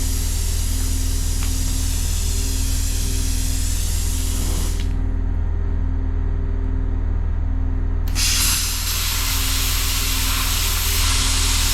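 A steady, loud hiss over a constant low electrical hum, from a tool at work on metal. About five seconds in, the high part of the hiss drops away for some three seconds, then comes back at full strength.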